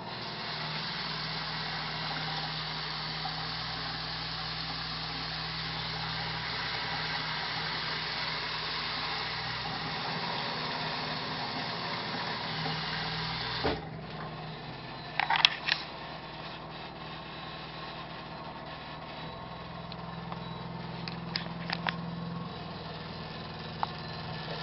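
Steady rattling, motor-like hum from under a bathroom sink, with a low drone beneath it. A little over halfway through there is a knock, the hum drops somewhat, and a few sharp clicks follow.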